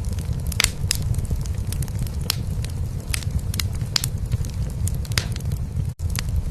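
Wood fire in a fireplace crackling with frequent sharp pops, over a steady low purring rumble from a cat. The sound drops out for an instant near the end.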